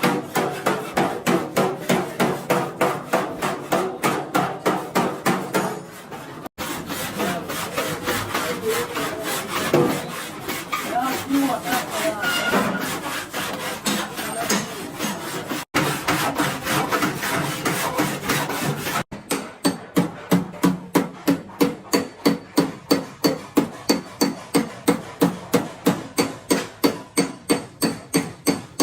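Hammer rapidly striking a sheet-metal car body panel in panel beating, about four even blows a second. A middle stretch holds mostly rubbing and scraping on the panel.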